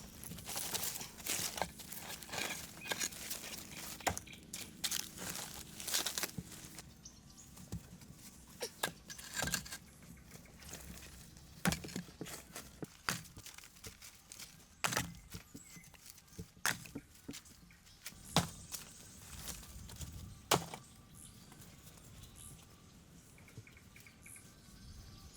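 A series of irregular sharp knocks and scrapes, busiest in the first several seconds, then scattered single knocks.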